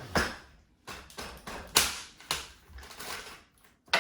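Five or six sharp knocks and clatters at irregular intervals, each dying away quickly, from hard objects being handled and set down.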